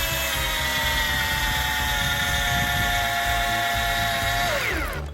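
Keyang DD-1200 12-volt cordless drill driver driving a self-drilling screw: a steady motor whine that sags slightly in pitch under load, then winds down and stops near the end as the screw seats.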